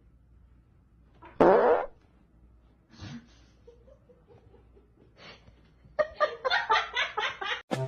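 A short, loud fart-like buzzing blast about a second and a half in. Near the end comes about a second and a half of rapid, pulsing sound.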